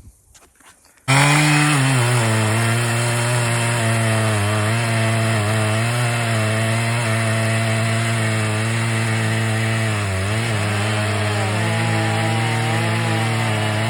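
Husqvarna 3120 XP, a large two-stroke chainsaw, cutting through wood at full throttle. It comes in suddenly about a second in and then runs steady under load, its pitch sagging slightly as the chain bites into the wood and again about ten seconds in.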